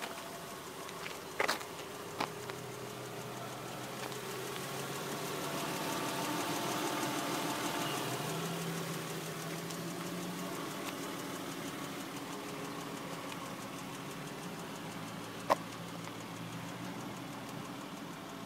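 Volvo 960's straight-six engine idling steadily, getting louder for a few seconds around the middle. A few sharp clicks, one loud one near the end.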